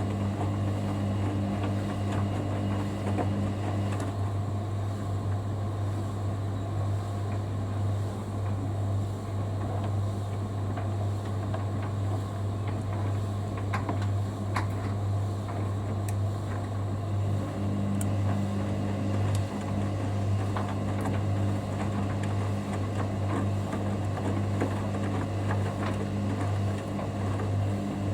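Hoover Dynamic Next washer-dryer running its main wash: a steady low hum, with a second motor tone that stops about four seconds in and comes back past the halfway point as the drum pauses and turns again, and a few faint clicks.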